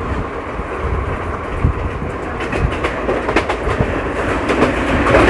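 Indian Railways passenger coach running at speed: a steady rumble of wheels on the track, with wheels clicking over rail joints, the clicks coming more often in the second half. The sound grows a little louder near the end.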